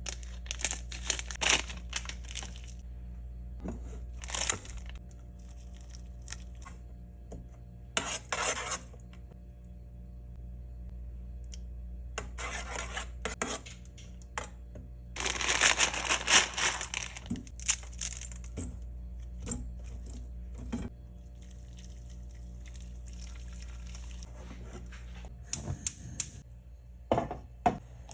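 Instant noodle packets and seasoning sachets being torn open and crinkled in irregular bursts, the longest about halfway through, with a few light clinks of dishes and utensils. A steady low hum runs underneath.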